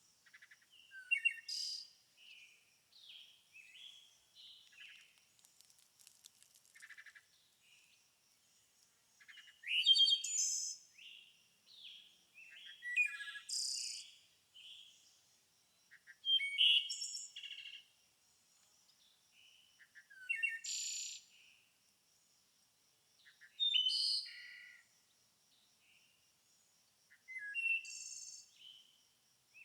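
Songbirds singing: loud, roughly second-long song phrases repeat every three to four seconds, with softer chirps from other birds in between. A faint, steady high-pitched trill runs underneath.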